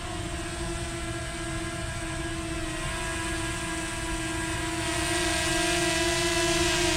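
Small quadcopter drone's propellers whining at a steady pitch with slight wavers, growing louder about five seconds in.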